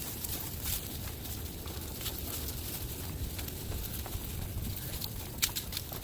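Wind buffeting the microphone as a steady low rumble, with scattered light ticks and rustles over it.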